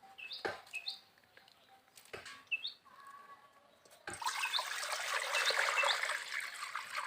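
Small birds chirping in short repeated calls, then from about four seconds in a steady rush of water pouring and splashing, which becomes the loudest sound.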